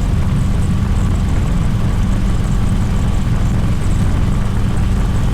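Harley-Davidson V-twin motorcycle cruising: a steady low engine rumble with no change in pace.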